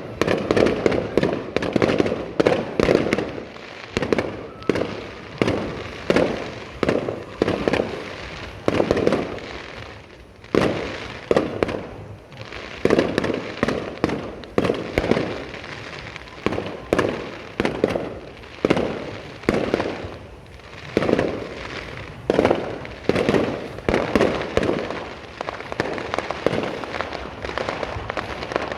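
Aerial fireworks shells bursting in a steady series of booms, about one or two a second, each trailing off in a short echo. Near the end the bangs run together into a denser, continuous crackle.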